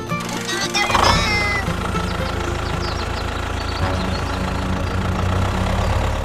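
A short animal call about a second in, followed by a steady low motor hum, with light high chirps over background music.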